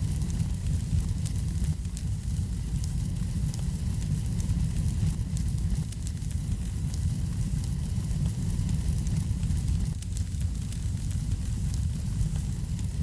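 Wood fire burning in a fireplace: a steady low rumble of the flames with many small, irregular crackles and pops throughout.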